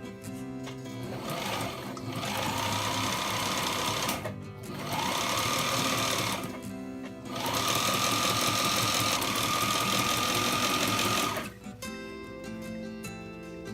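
Electric sewing machine running in three spurts, each starting with a rising motor whine that then holds steady, over background music.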